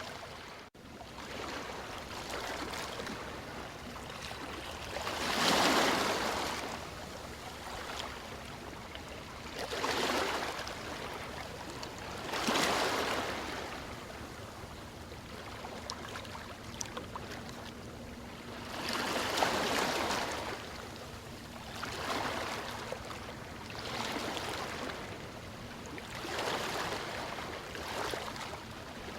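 Ocean waves breaking and washing ashore, each wave swelling up and fading every few seconds over a continuous hiss of surf. A brief drop-out in the sound just under a second in.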